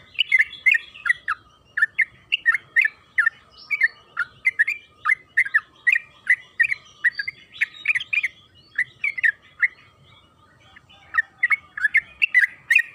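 Yellow-vented bulbul (trucukan) singing a long, rapid run of short, bubbly chirping notes, about three or four a second. The run breaks off for about a second near the end, then starts again.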